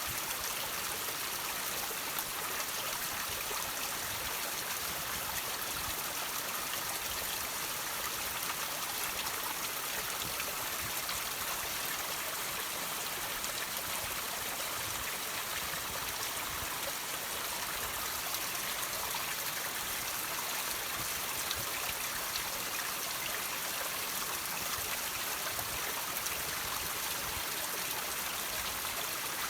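Water trickling and dripping off rocks: a steady splashing hiss with scattered small drips, unchanging throughout.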